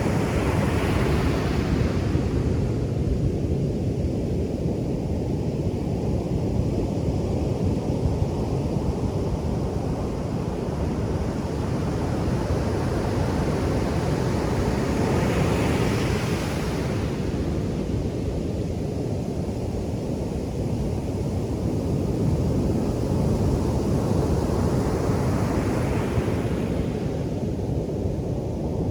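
Ocean surf breaking on a sandy beach: a steady low rumble of surf, with a rising hiss as a wave crashes three times, near the start, about halfway through, and a few seconds before the end.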